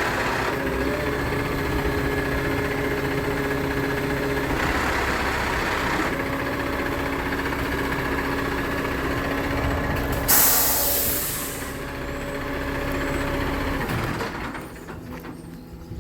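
Garbage truck running steadily with a held whine, then a loud hiss of its air brakes about ten seconds in; the truck sound fades out near the end.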